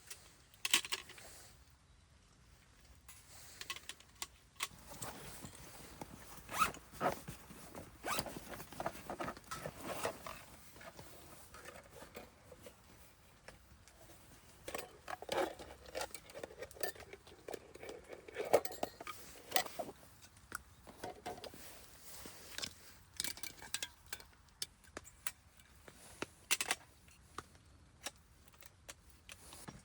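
Camp cookware and packaging being handled: scattered clicks and knocks with bursts of rustling.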